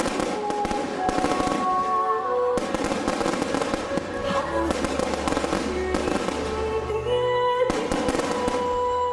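Fireworks crackling and popping in a dense, continuous volley, with music playing loudly over them.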